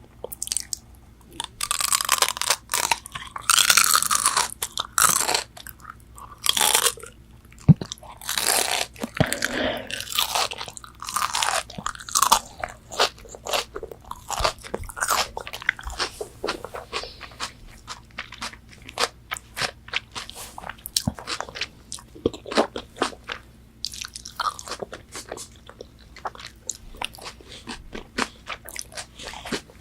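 Close-miked biting and chewing of crispy McDonald's chicken nuggets. Loud crunching bites come first, then quieter, quicker chewing with another crunchy bite a little past the middle.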